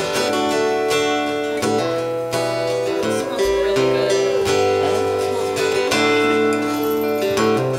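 Acoustic folk-rock band playing an instrumental song intro: strummed acoustic guitars with long held melody notes over them.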